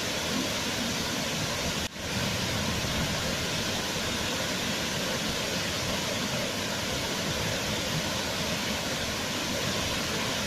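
Waterfall rushing in a steady, even roar of falling water, with a brief dropout in the sound about two seconds in.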